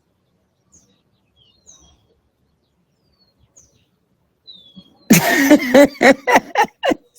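Faint, scattered chirps of small birds, short high calls and a few quick downward sweeps. About five seconds in, a loud person's voice comes in over them.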